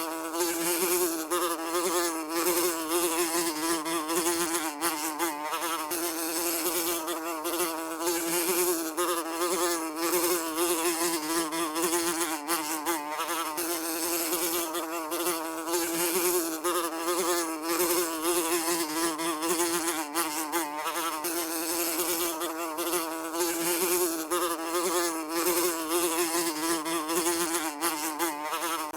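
A fly buzzing continuously, a steady drone whose pitch wavers up and down as it flies about.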